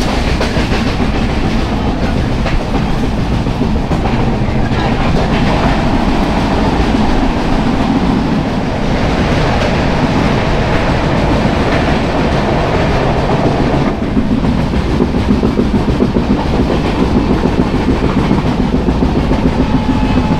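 A moving passenger express train running on the rails: a steady, loud rumble and rattle of wheels and coaches on the track.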